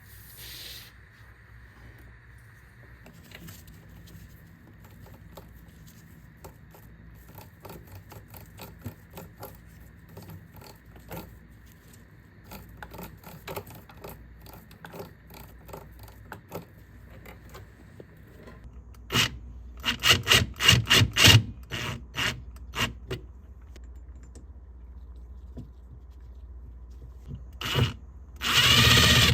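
Hand tools working metal bike parts: scraping and rubbing with many small clicks. About two-thirds of the way in comes a run of loud knocks and clatter, and another loud burst near the end.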